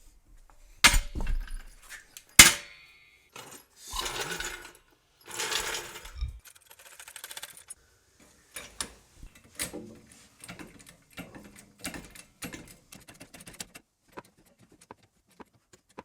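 Metal floor jack being handled: two loud clanks, then two spells of rattling as it is rolled across the floor, then scattered light clicks and taps.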